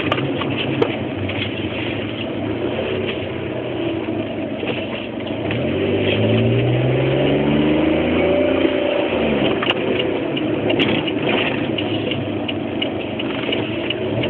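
Car engine running, its pitch rising steadily from about six seconds in and dropping away near nine seconds, with a few sharp clicks.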